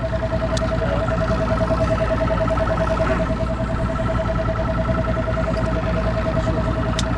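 Boat motor running steadily, a low rumble under a pulsing whine that holds one pitch.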